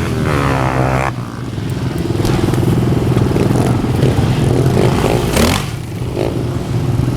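Motorcycle engines running steadily, with a brief rise in pitch about five seconds in.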